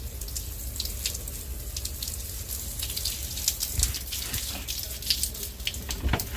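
Liquid splashing steadily onto a hard surface with small irregular spatters: a man urinating on a doorstep.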